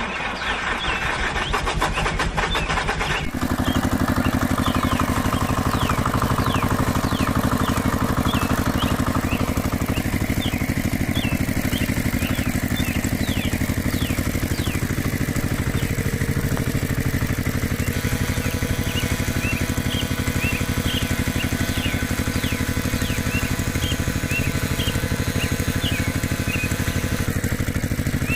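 A small engine running steadily with a fast, even beat. It grows louder and fuller about three seconds in.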